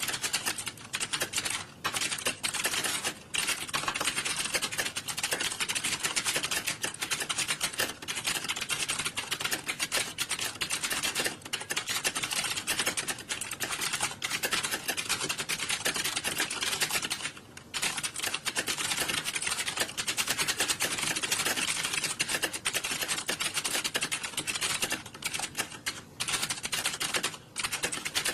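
Many computer keyboards being typed on at once: a dense, steady clatter of key clicks with a brief lull about two-thirds of the way through.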